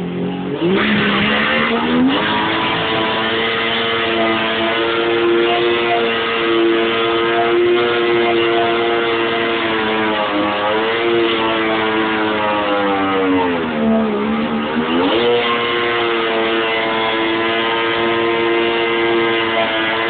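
Yamaha GP1200R jet ski's two-stroke three-cylinder engine accelerating hard about a second in, then running at high revs. The revs dip and climb back twice, around halfway and about two-thirds through, as the throttle is eased and reopened.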